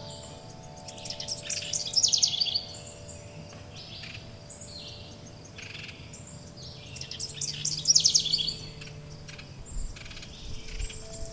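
Several songbirds singing and chirping, with high thin chirps throughout and twice a fast run of notes falling in pitch. Beneath them, wind chimes ring in long, overlapping tones of different pitches.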